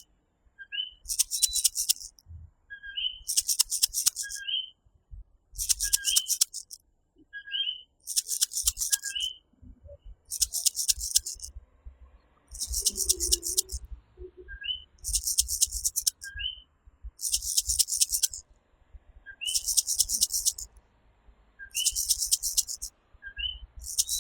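Common coquí tree frogs calling their two-note rising "co-quí", repeated about every second and a half, over a louder, very high pulsed trill that comes in regular bursts about every two seconds.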